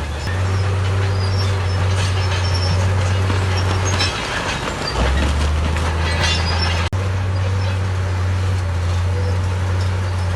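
Crawler bulldozer's diesel engine running under load, its low drone stepping up and down in pitch as the load changes, with metallic squeals and clanks from the tracks through the middle. The sound cuts out for an instant a little past the middle.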